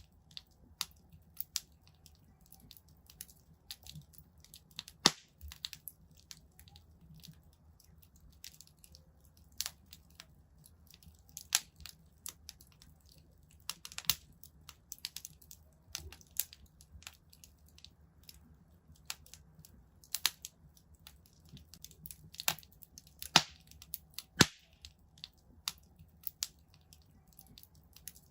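Wood fire in a fireplace crackling: irregular sharp pops and snaps, a few louder cracks among them, over a faint low rumble of the flames.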